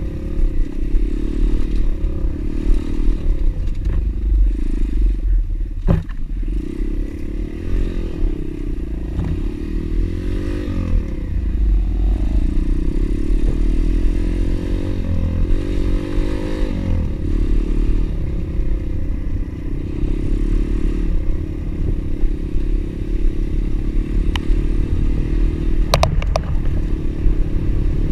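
Pit bike engine running while riding, its pitch rising and falling with the throttle. Sharp knocks about six seconds in and again near the end.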